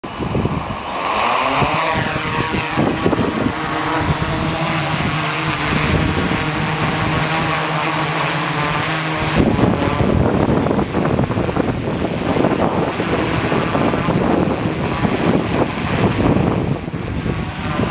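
DJI Inspire 2 quadcopter's propellers spinning up with a rising whine, then running with a steady hum. About nine seconds in, the steady tone gives way abruptly to a rougher rushing noise.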